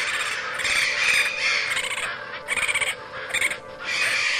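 A flock of birds squawking and cawing in a run of short, overlapping calls, the alarm cries of birds trapped in a net.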